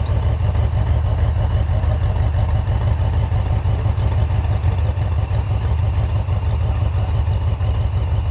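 Four-wheel-drive truck engine running steadily with a deep, low rumble.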